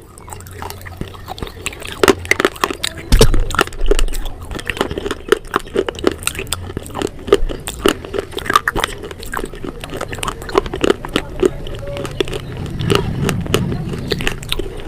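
Close-up crunchy chewing and biting: a dense, irregular run of sharp crackling crunches from a mouth eating crisp food.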